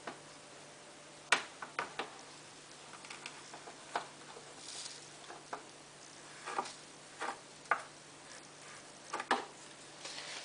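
Scattered light clicks and taps at irregular intervals, over a faint steady hum.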